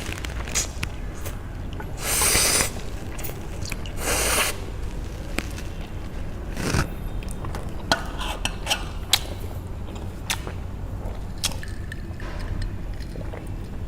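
Close-miked eating of Korean spicy noodles with egg: two longer slurps about two and four seconds in, with wet, squishy chewing and scattered sharp clicks in between, over a low steady hum.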